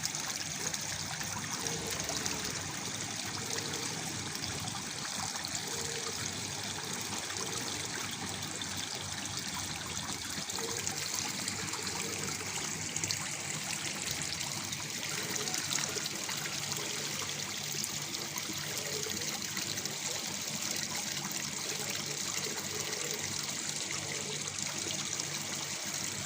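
Small waterfall splashing and trickling steadily into water, an even rushing hiss with no changes.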